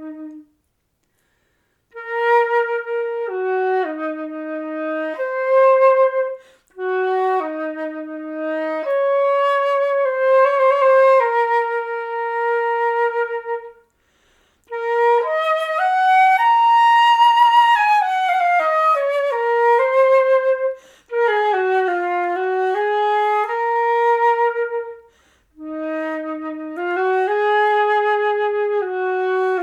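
Solo flute improvising unaccompanied, playing a series of slow melodic phrases separated by short silent pauses; the longest phrase, in the middle, climbs higher and then steps back down.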